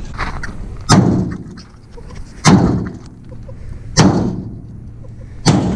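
Four heavy blows, evenly spaced about a second and a half apart, each dying away briefly: a loose Cherry Bomb muffler being battered until it is wrecked.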